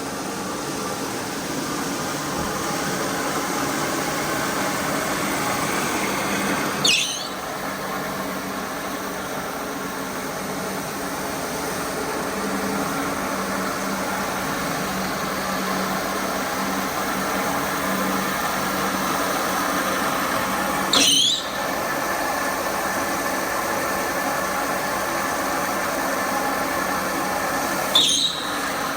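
A carpet-cleaning machine running steadily with a low hum, broken three times by a brief high-pitched squeal.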